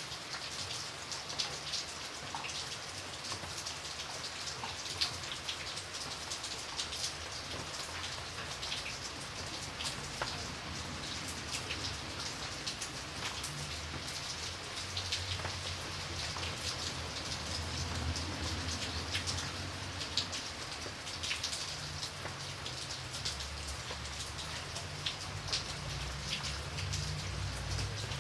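Steady rain with many small drops pattering on a window pane. A low rumble comes in about halfway through and grows toward the end.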